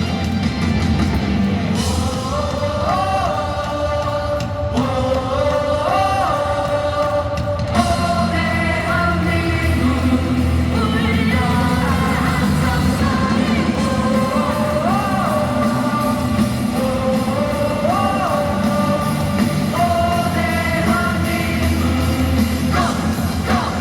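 Live rock band playing through a loud stadium sound system, with a lead singer carrying a melody that slides between held notes over drums, bass and guitars.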